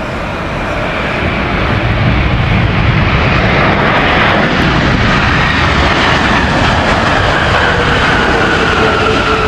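Boeing 787-9 airliner's jet engines passing: a loud roar that builds over the first few seconds, with an engine whine that falls slowly in pitch as it goes by.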